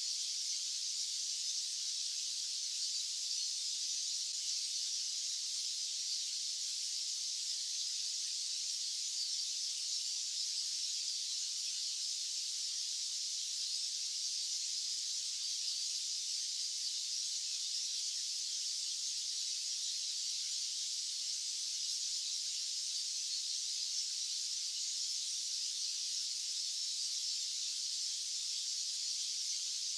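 White noise: a steady, high-pitched hiss with no low rumble.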